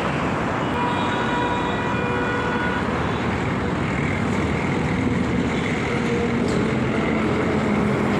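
Steady road traffic noise, with a faint held tone between about one and three seconds in.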